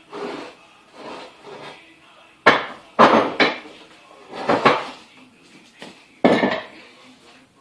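Metal clanking and knocking as a bench vise and its mounting bolts are handled and set in place, a string of separate sharp clanks with the loudest a few seconds in and again near the end, after softer scraping knocks at the start.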